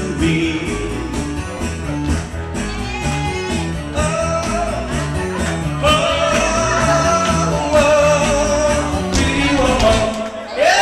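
Band music with a singer holding long notes over a bass line that steps from note to note, with guitar. The music breaks off just before the end.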